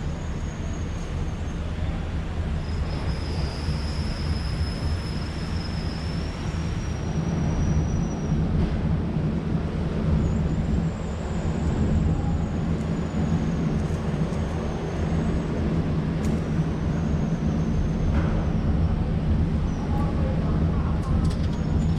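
Steady low drone of a Star Ferry's engine heard on board while the ferry is under way, with an even rush of noise over it.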